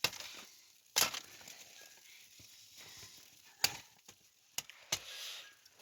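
Kitchen utensils knocking and clinking during cooking: five sharp, separate knocks spaced about a second apart, over a low hiss.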